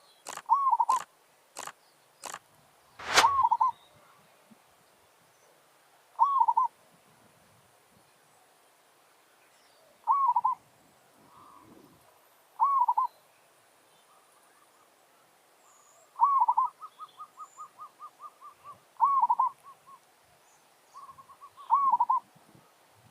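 Zebra doves cooing: short coos repeated every few seconds, with runs of rapid staccato notes about two-thirds of the way through and again near the end. A few sharp clicks in the first three seconds.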